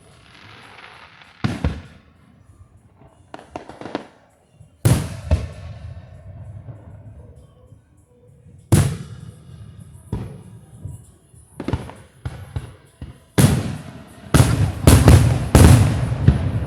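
Aerial fireworks shells bursting: about a dozen sharp booms, each followed by a rolling echo, spaced a second or more apart and then coming in a quick cluster near the end.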